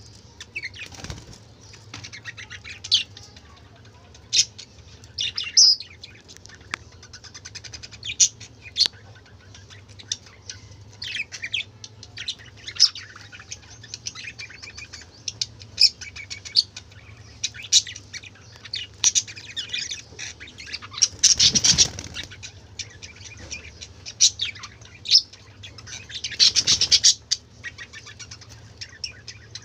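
A flock of pet budgerigars chirping and chattering, with many short high calls, plus two louder noisy bursts about two-thirds of the way through and near the end that fit wing flapping. A faint steady low hum lies underneath.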